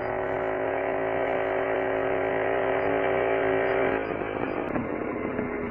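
Motorcycle engine running at a steady pitch, its note shifting about four seconds in.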